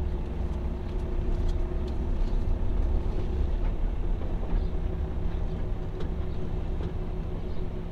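Steady low rumble of a car being driven, heard from inside the cabin: road and engine noise with a faint steady hum.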